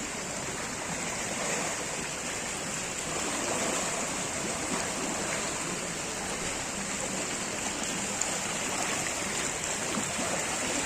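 Floodwater running, a steady rushing of water with a thin high hiss above it.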